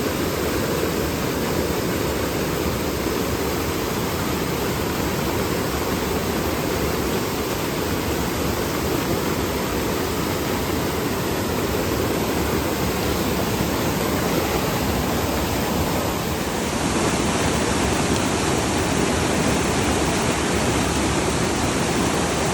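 Rain-swollen mountain river rushing steadily over rocks. The sound turns slightly brighter about seventeen seconds in.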